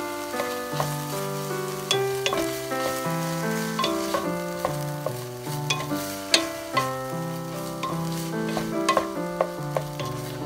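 Chopped pork and egg sizzling in a frying pan while a wooden spatula stirs it, with sharp irregular clacks of the spatula against the pan. Background music with held notes and a stepping bass line plays throughout.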